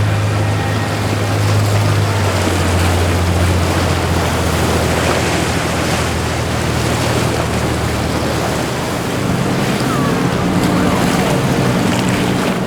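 Boat engines running with a low, steady hum over the rush of inlet waves and wind on the microphone; the engine note rises a little about three seconds in.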